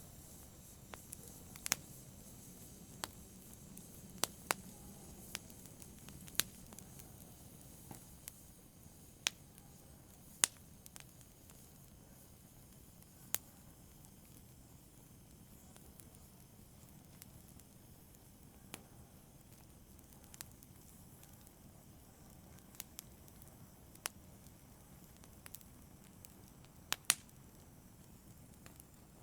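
Small fire crackling: a soft low hiss with sharp, irregular pops every second or two, a close pair of pops near the end.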